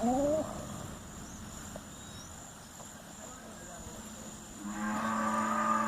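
A farm animal calling: a short rising call at the very start, then, about two-thirds of the way in, one long, loud call held at a steady pitch.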